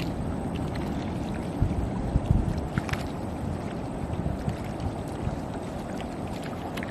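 Water sloshing and wind buffeting the microphone as a seine net is hauled through shallow estuary water, with a few short sharp sounds about two to three seconds in.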